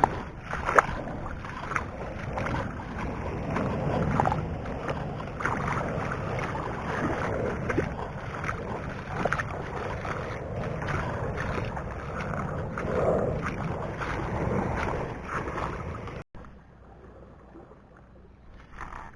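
Water washing and splashing at the shoreline, with wind on the microphone and scattered short knocks; about three-quarters of the way through it cuts off suddenly to a much quieter background.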